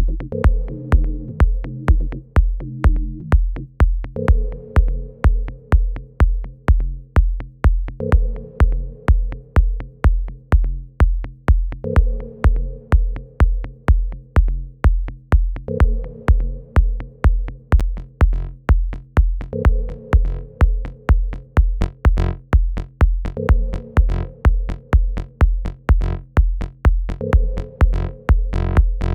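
Electronic dance music with a steady four-on-the-floor kick drum, about two beats a second, under a bass line and a synth chord that changes every four seconds or so.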